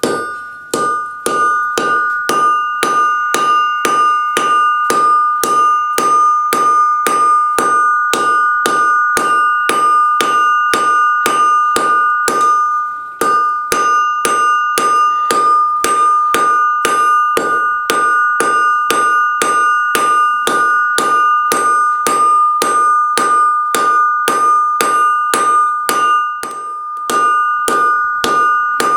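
Blacksmith's hammer forging a piece of crowbar steel on an anvil, about two blows a second, the anvil ringing steadily between blows. The hammering stops briefly about halfway through and again near the end.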